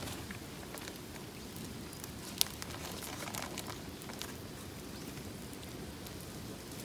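Wood campfire crackling, with scattered small pops and one sharp loud pop about two and a half seconds in.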